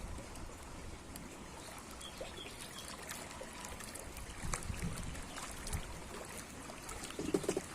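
Water trickling and lapping as a steady wash, with scattered small clicks and a brief louder sound near the end.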